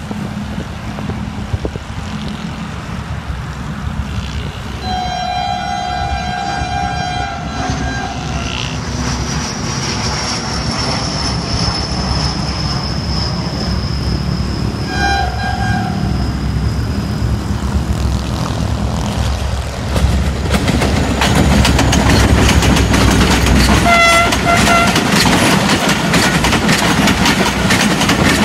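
Pakistan Railways HGMU-30R diesel-electric locomotive approaching with a passenger train and sounding its horn: one long blast about five seconds in, then short blasts about ten and nineteen seconds later. Its rumble grows louder, and from about twenty seconds in the coaches pass close by with a rapid clickety-clack of wheels over the rails.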